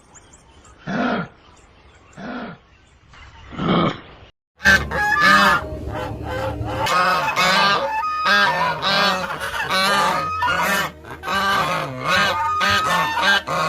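A flock of birds calling densely over one another, the calls overlapping without a break. It is preceded by three separate deep calls spaced about a second and a half apart, then a brief silence.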